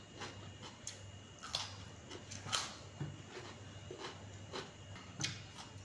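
Mouth sounds of someone chewing a mouthful of tilapia and rice: soft wet smacks and clicks every half second to a second, over a low steady hum.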